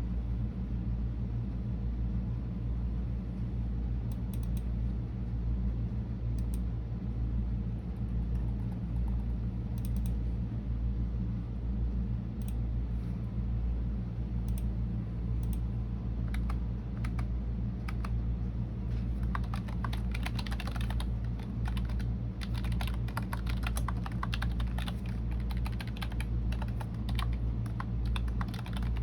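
Typing on a computer keyboard: a few scattered keystrokes in the first half, then continuous rapid typing from about two-thirds of the way in, over a steady low hum.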